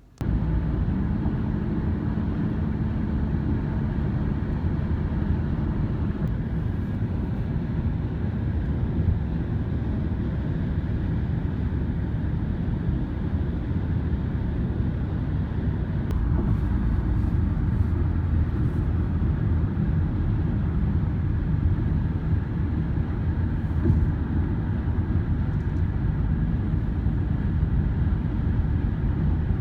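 Steady road and engine rumble of a moving car heard from inside the cabin, with a faint steady hum over the first several seconds.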